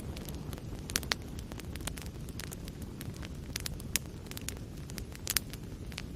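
Wood fire burning in a fireplace: a steady low rumble of flames with frequent sharp crackles and pops scattered irregularly, a few louder pops around one, four and five seconds in.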